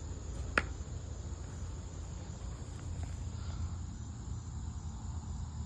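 Crickets trilling steadily over a low background rumble, with one sharp knock about half a second in.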